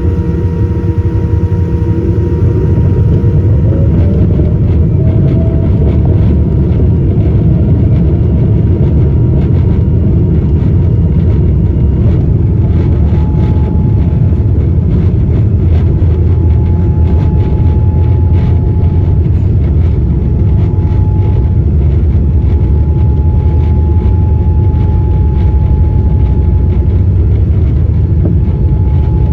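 Boeing 787-9 jet engines and airframe heard from inside the cabin during the takeoff run: a loud, steady low rumble with many small jolts. An engine tone rises in pitch a few seconds in, then settles into a steady whine.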